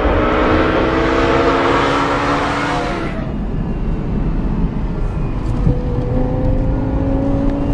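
Lexus LFA's V10 engine under hard acceleration as the car comes past on the track, loud with a slowly rising pitch. About three seconds in it cuts abruptly to a quieter car engine heard from inside the cabin, its pitch climbing slowly as the car gathers speed.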